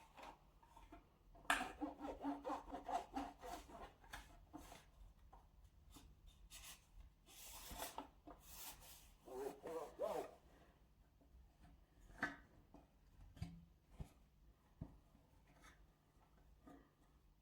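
Cloth scrubbing the inside of a fridge: a run of quick rubbing strokes, a longer rub and a short squeak, then a few light knocks.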